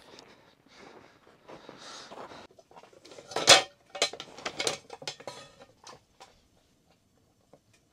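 Metal camp cookware and utensils being handled: soft rustling, then a loud clatter about three and a half seconds in, followed by a run of knocks and clinks that die away after about six seconds.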